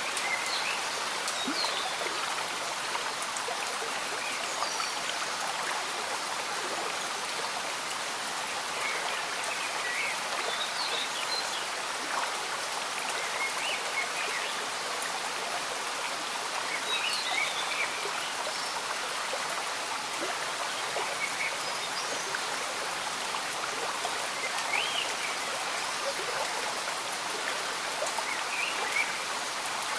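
Slow-moving stream bubbling steadily, with gentle rain falling.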